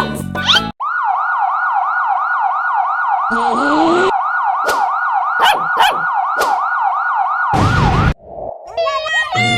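An emergency-vehicle siren in a fast yelp, sweeping up and down about three times a second. It cuts in just under a second in and stops abruptly about eight seconds in, with a few sharp clicks over it.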